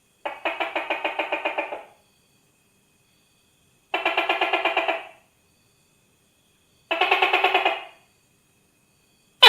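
Tokay gecko calling: three rattling calls of rapid pulses, each about a second long and a few seconds apart, then a sharper, louder call with a falling pitch starting right at the end.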